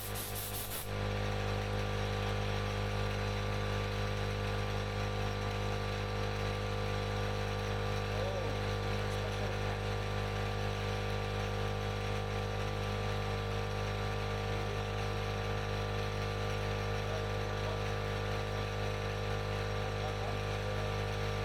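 A steady, even hum made of several constant tones that hold unchanged throughout.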